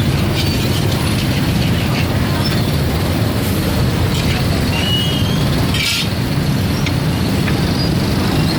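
Street ambience dominated by a steady low engine rumble of traffic, with a few faint voices and small high chirps over it.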